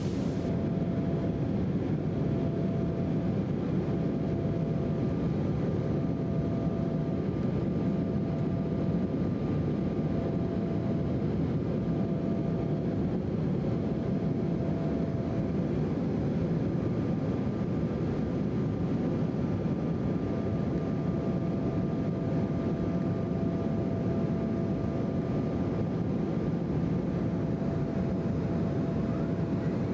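Embraer E175 airliner's jet engines and airflow making a steady roar, with a faint hum that breaks in and out.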